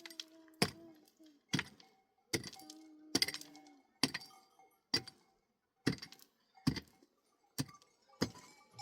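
Sharp knocks, about one a second, from something being struck over and over, with faint drawn-out tones between some of the strikes.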